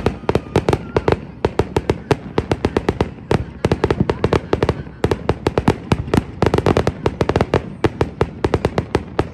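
Aerial fireworks bursting in a rapid, unbroken barrage of sharp bangs, several a second.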